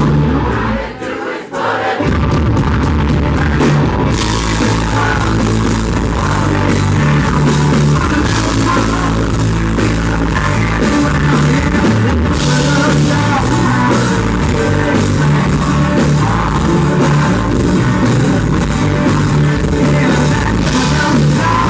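A country-rock band playing loudly live, with drums, bass and electric guitar, in a poor, muddy audience recording. The music drops briefly about a second in, then the full band carries on.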